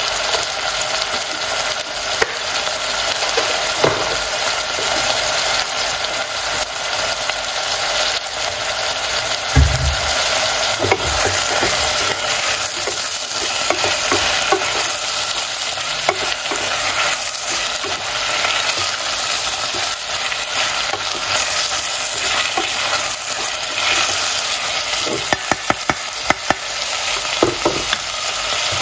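Vegetables frying with a steady sizzle in a stainless steel saucepan, stirred with a wooden spoon that scrapes and knocks against the pan now and then, more often near the end.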